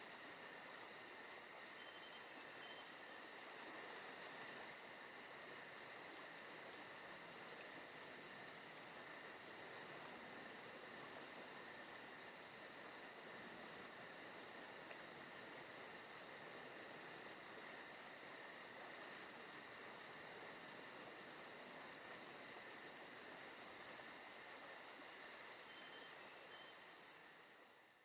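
Forest ambience track: a steady chorus of chirping insects with a fast, even pulsing high up. It fades down and drops out briefly near the end.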